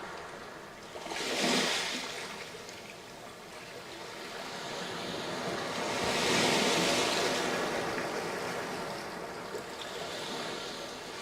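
Sea waves breaking on a sandy beach: a short wash about a second in and a longer, louder one in the middle, over a steady background hiss of surf.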